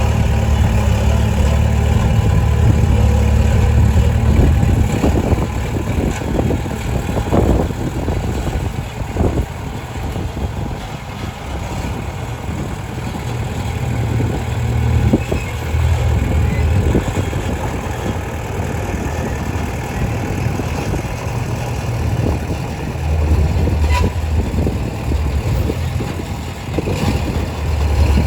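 Komatsu D20P bulldozer's diesel engine running, a steady low drone that fades back and comes up again as it works. Metal clanks and rattles come through a few seconds in and now and then after.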